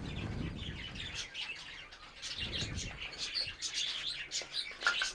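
Small aviary birds chirping, many short high calls overlapping throughout, with a low rumble of handling noise at the start and again about two and a half seconds in.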